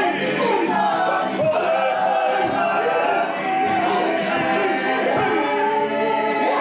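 Music of several voices singing together, a choir-like vocal piece.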